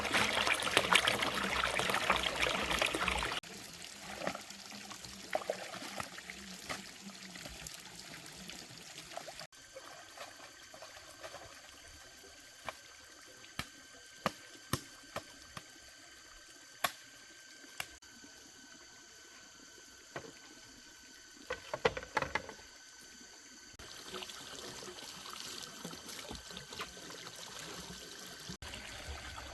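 Water trickling and pouring, loudest in the first few seconds, then quieter after a cut, with scattered sharp clicks and knocks in the middle and a faint steady high tone behind it.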